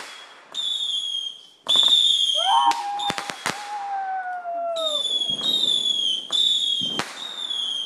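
Consumer fireworks going off: a series of high-pitched whistles, each about half a second long and dipping slightly in pitch, mixed with sharp bangs and crackling pops. A lower whistle slides downward through the middle.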